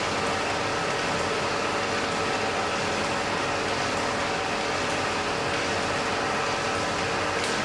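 Blacksmith's forge fire burning steadily: an even, continuous rushing noise with faint steady tones underneath.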